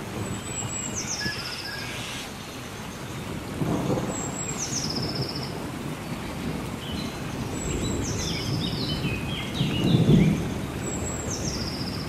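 Steady rainforest rain with low rumbles of thunder, loudest about four and ten seconds in. Over it a bird calls a short, high, falling whistled phrase about four times.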